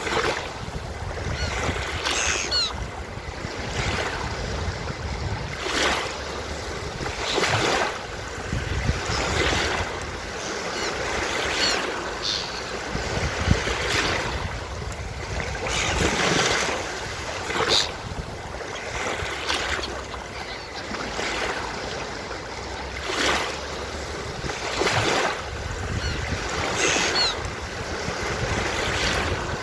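Ocean surf washing onto a beach, the waves surging every two to three seconds over a low rumble, with a few short, high seagull cries now and then.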